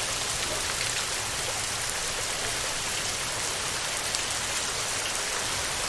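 Heavy rain falling steadily on a tin roof, a dense, even patter of drops.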